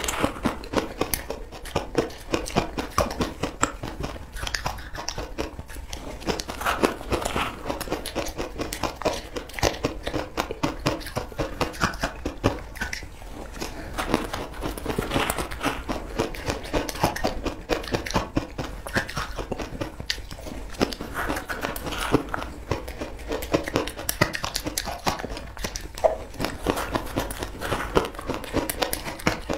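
Close-up crunching and chewing of a crumbly food eaten by the spoonful: a dense, steady run of crisp crackles and bites.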